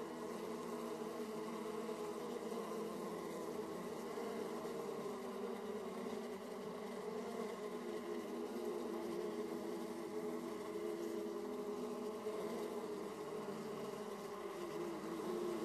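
Honeybees buzzing at a hive entrance: a steady, many-voiced drone of wingbeats as bees fly in and out close by.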